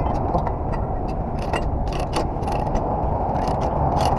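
Irregular ratcheting metal clicks, a dozen or so over a few seconds, over a steady low rumble of a running truck engine.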